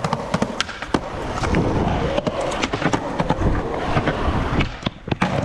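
Skateboard wheels rolling hard over rough concrete, a steady rumble dotted with clicks over cracks and joints, then a couple of sharp board clacks near the end.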